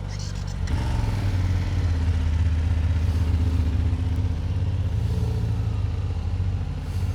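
Motorcycle engine running under way, its note picking up about a second in and then holding steady.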